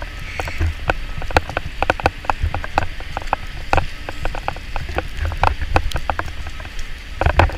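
Wet snow striking the camera in irregular sharp ticks, over a low rumble of wind on the microphone.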